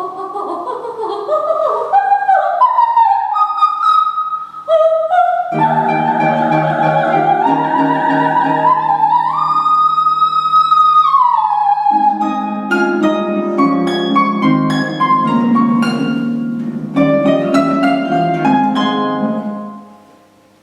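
Coloratura soprano singing with harp accompaniment: fast runs and staccato figures, with a long held high note about halfway through, then plucked harp chords under the voice. The music dies away just before the end.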